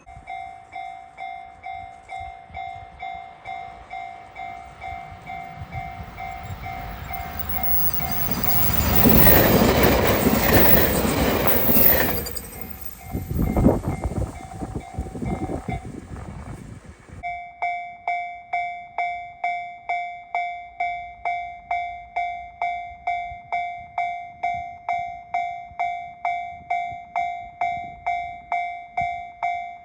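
Railway level-crossing warning bell ringing at about one and a half strokes a second while an electric train approaches and passes, loudest about nine to twelve seconds in, with clattering wheels until about sixteen seconds. After the train has gone the bell keeps ringing, louder from about seventeen seconds on.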